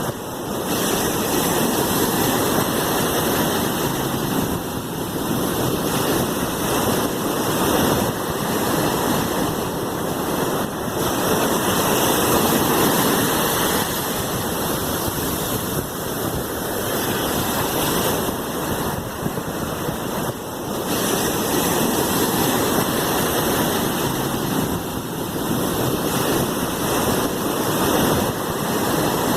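Sea waves washing in continuous surf, the rush swelling and easing every several seconds.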